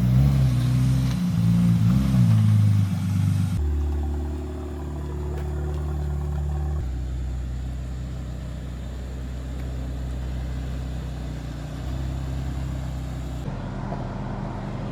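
Car engine revving, its pitch rising and falling through the first few seconds, then running at a steadier pitch for the rest.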